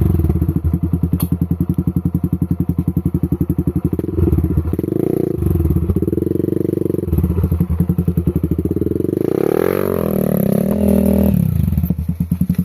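Off-road motorcycle engine running at a low, pulsing beat, revving up and back down about three-quarters of the way through, then cutting off suddenly near the end.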